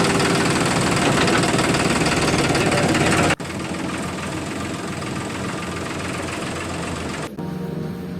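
A small motor running steadily with a dense buzz, dropping abruptly to a quieter level about three seconds in and running on.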